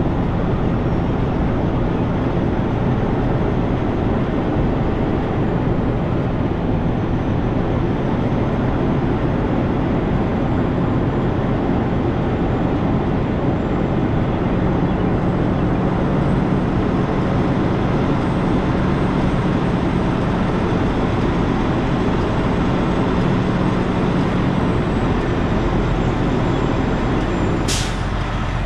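Semi-truck diesel engine running steadily at low speed while reversing, with a low hum that strengthens midway. A short, sharp hiss sounds near the end.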